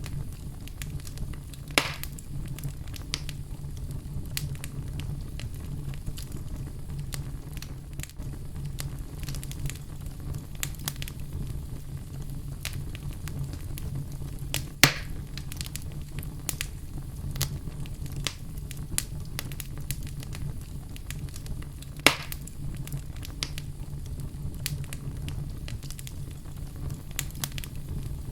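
Fire in a fireplace crackling with a constant patter of small snaps over a steady low rumble. Three louder pops stand out: near the start, about halfway through, and past the three-quarter mark.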